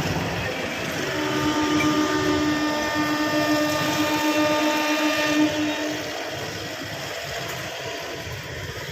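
A MEMU electric train's horn sounds one long steady note for about five seconds, over the train's running rumble.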